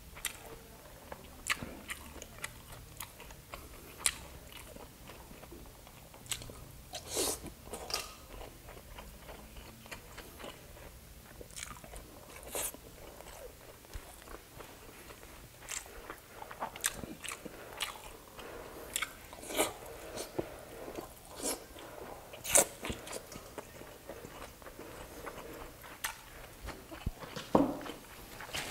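A person chewing and biting grilled skewered street food close to the microphone, with irregular sharp mouth clicks all through.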